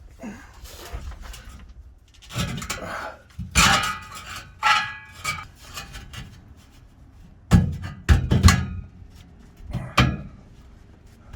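Steel exhaust pipe sections being handled and fitted, giving irregular metal clanks and knocks, a few of them ringing briefly.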